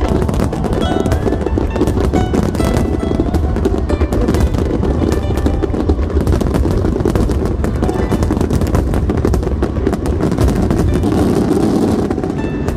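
A rapid, dense barrage of fireworks bursts and crackles over music.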